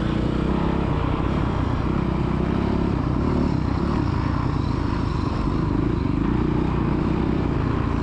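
Dirt bike engines running on a motocross track, their pitch rising and falling as the throttle opens and closes.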